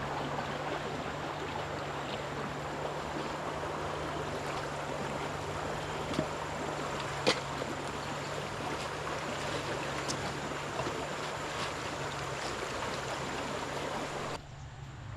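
Steady rushing of flowing water, with a faint low hum under it and a few sharp clicks, the clearest about seven seconds in; the rushing drops away suddenly near the end.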